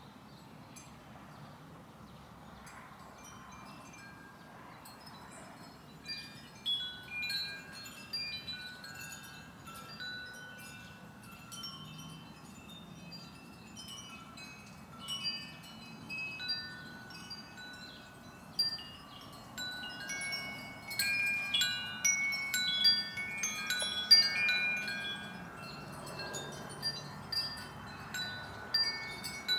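Wind chimes ringing in the breeze, scattered clear tones at several pitches that start a few seconds in and grow busier in the second half.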